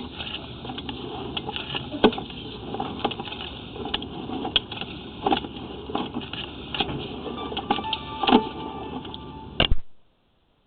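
Sewer inspection camera's push cable being pulled back through the sewer pipe: a steady mechanical rumble with irregular knocks and clicks of the camera head and cable against the pipe, stopping abruptly near the end.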